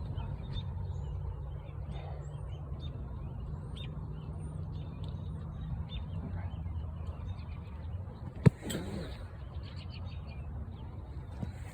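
Scattered small bird chirps over a steady low hum, with one sharp click about eight and a half seconds in.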